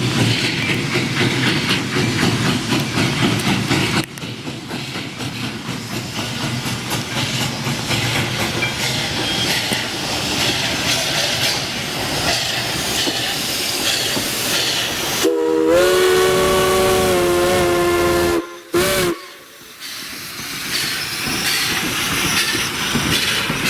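Steam locomotive's chime whistle: one long blast of about three seconds, sounding several notes at once, then a short toot, over the steady noise of the train.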